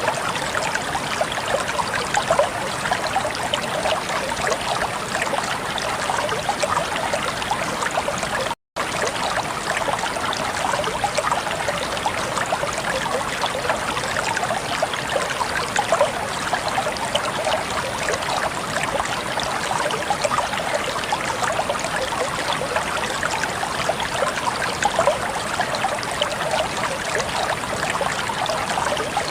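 Water flowing and trickling steadily over rocks, with a brief total dropout a little under nine seconds in.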